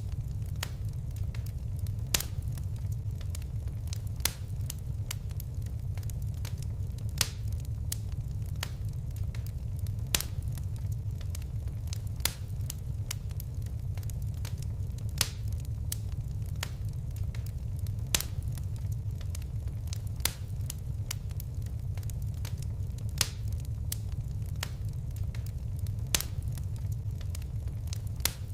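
Wood fire crackling: a steady low rumble of burning with sharp pops and snaps scattered irregularly throughout, a dozen or so of them louder than the rest.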